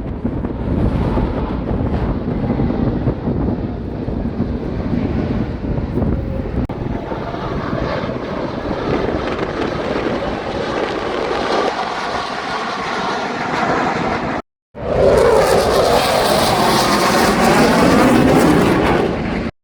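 Airplane engine noise from an aircraft flying past, growing louder and brighter over several seconds. After a brief cut, a louder pass follows, its pitch sweeping as the plane goes by.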